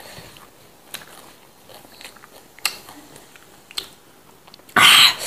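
Close-up eating sounds of raw lalapan greens dipped in chili sambal: soft biting and chewing with a few sharp mouth clicks. Near the end a sudden loud hissing rush takes over.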